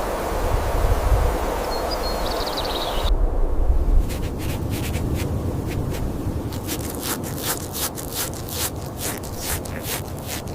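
Steady rushing surf-like noise, which cuts off abruptly about three seconds in. A fast, irregular run of clicks and scratchy scrapes follows.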